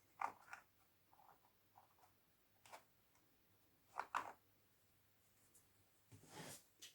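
Small plastic LEGO parts being handled and glued: light, scattered clicks and taps, a sharper pair about four seconds in, and a brief scrape near the end.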